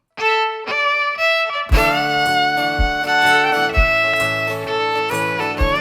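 Instrumental intro of a folk song: a fiddle plays a few notes alone, then about two seconds in the guitar comes in and the full accompaniment begins, with a low beat about once a second.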